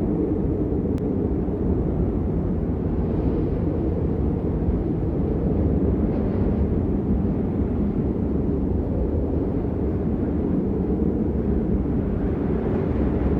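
Steady heavy rain, a deep, even rush that never lets up, with little high hiss.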